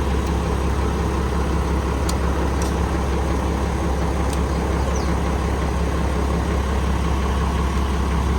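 Truck engine idling steadily with a deep, even hum, with a few faint ticks over it.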